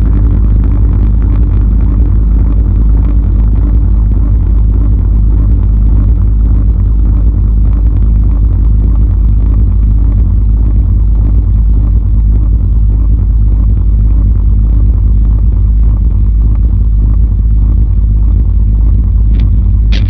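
SG electric guitar through an Electro-Harmonix Big Muff fuzz and an MXR Analog Delay, making a loud, steady, deep drone with a noisy fuzz haze over it.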